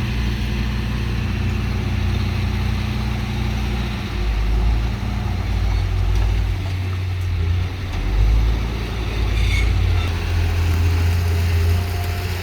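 Diesel engine of heavy earthmoving machinery running with a steady low drone that swells about four and eight seconds in.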